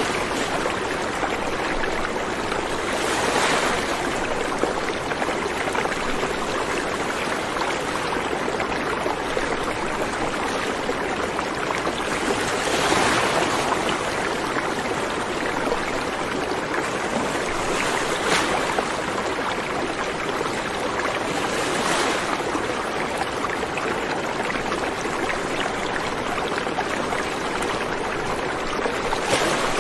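River water rushing steadily over rocks, with a brief louder splash or swell a few times.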